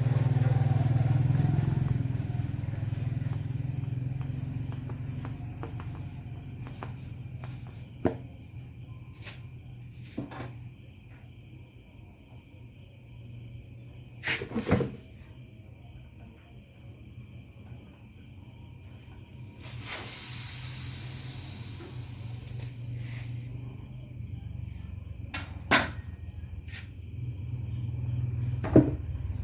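Insects trilling steadily in a high, finely pulsing band over a low rumble, with several sharp knocks or clicks and a brief hiss about twenty seconds in.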